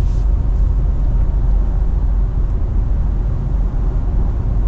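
Inside the cabin of a 2019 Ford Edge ST cruising with its twin-turbo V6 running through a Borla S-Type cat-back exhaust: a steady low rumble mixed with road noise, just a slight growl and no drone.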